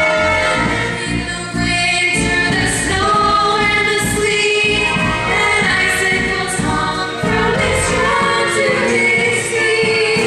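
Stage-musical number: voices singing together over instrumental accompaniment.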